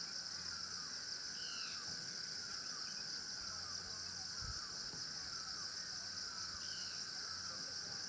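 Steady high-pitched insect drone, with a bird calling over it in short falling notes about twice a second and a few higher chirps now and then.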